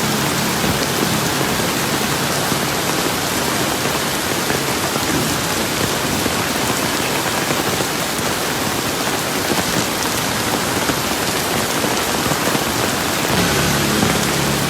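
Steady heavy rain falling and pattering on surfaces, an even dense hiss with no let-up.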